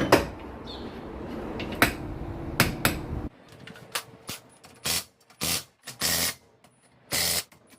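Sharp metal clicks and knocks of engine parts being handled and set in place while the crankshaft and main bearing caps are fitted. A run of short noisy bursts follows in the second half, about one every half-second to second.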